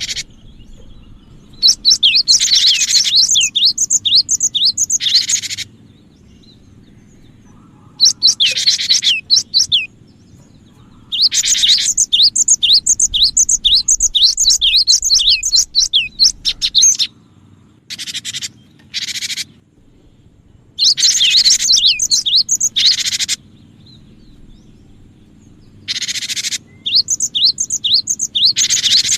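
Cinereous tit (gelatik batu) calling in several bouts of rapid, repeated high chirps, each bout lasting a few seconds, with short pauses between them.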